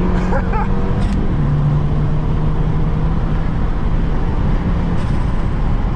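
Car engine running at a steady speed under a constant low rumble, its tone dropping a step about a second and a half in.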